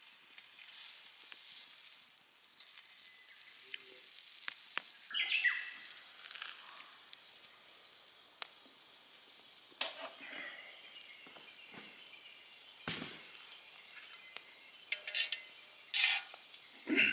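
Wood campfire crackling and hissing with sharp pops, and a few short bird calls now and then.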